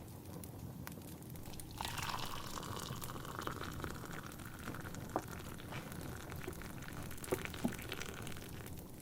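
Tea poured from a teapot into a cup, starting about two seconds in and running for several seconds, its pitch rising slowly as the cup fills. A fire crackles underneath, with a few sharp pops.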